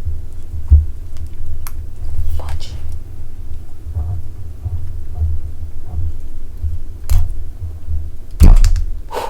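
Parts of a delta 3D printer being handled and fitted during assembly: a steady deep rumble of handling noise with scattered knocks and clicks, the loudest knock near the end.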